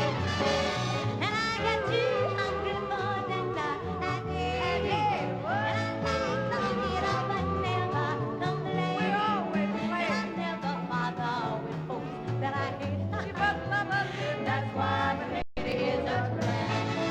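Live swing-style band music with pitched melodic lines gliding over a steady bass, and singing in it; there is a very brief dropout near the end.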